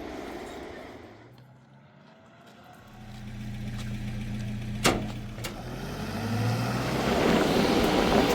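A motor vehicle's engine running with a steady hum that rises in pitch and grows louder toward the end, with one sharp click about five seconds in.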